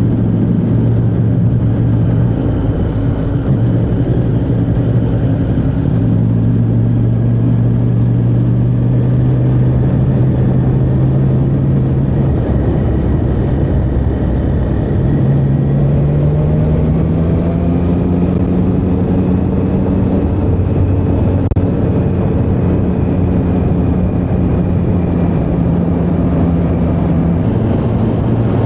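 2023 Triumph Street Triple 765R's inline three-cylinder engine pulling the bike along under way. The engine note holds steady, eases off about twelve seconds in, then climbs over several seconds as the bike accelerates, holds higher, and drops again near the end.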